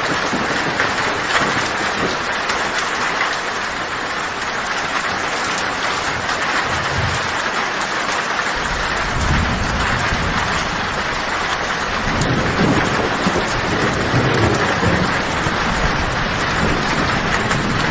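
Heavy rain falling on a tin roof as a steady, even hiss. Thunder starts rumbling low about eight seconds in and swells a few more times.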